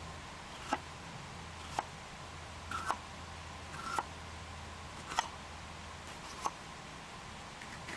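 Short, sharp taps of cooking utensils, about one a second, some with a brief ring, over a steady low hum.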